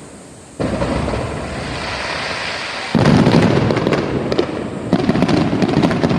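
Aerial fireworks bursting: a sudden boom about half a second in, then two louder bursts at about three and five seconds, each followed by rapid crackling.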